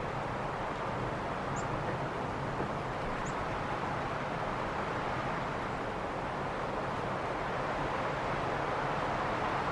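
Steady rushing outdoor ambience with no distinct events. Two faint, short, high chirps from a small bird come through, one under two seconds in and another about a second and a half later.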